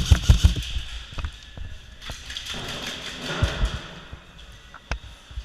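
A quick run of heavy thumps at the start, then scattered sharp taps and clicks with a short rustle in the middle, the knocks and handling noise of an airsoft game in play.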